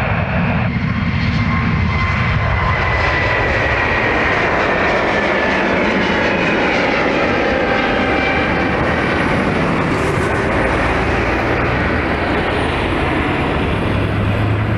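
Airbus A320neo airliner's turbofan engines at takeoff power, a loud steady jet rush with whining tones that slide slowly downward in pitch as the aircraft goes past.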